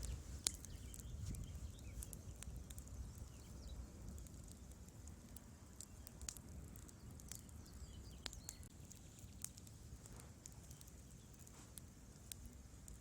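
Wood fire crackling in a fireplace: irregular sharp pops and snaps from the burning logs over a low, steady rumble of the flames, one louder pop about half a second in.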